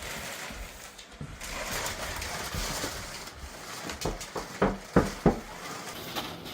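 Steady whir of an inflatable costume's battery-powered blower fan keeping the suit inflated, with a few sharp knocks or rustles about four to five seconds in, the loudest two close together near the end.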